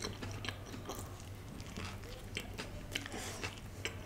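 Close-up chewing of a mouthful of toasted paneer sandwich, with irregular soft crunches and mouth clicks.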